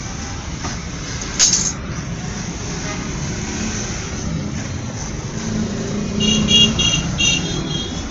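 Steady road traffic noise, with a vehicle horn sounding in several short blasts near the end and a brief sharp hiss about a second and a half in.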